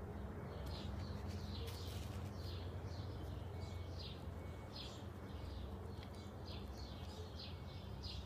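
Small birds chirping over and over in short, quick high notes, with a steady low hum underneath.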